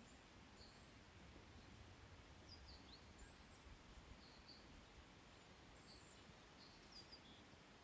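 Near silence: a faint outdoor background hush with small birds giving short high chirps every second or so.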